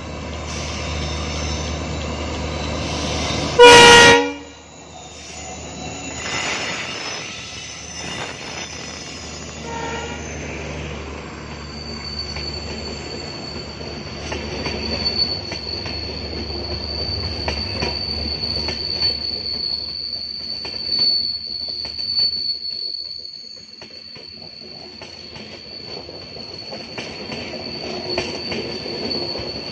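Passenger train pulled by a diesel locomotive rolling past with a low engine rumble. There is one short, loud horn blast about four seconds in. From about twelve seconds on, the coaches rounding the curve give a steady high-pitched wheel squeal over the clicking of the wheels on the rails.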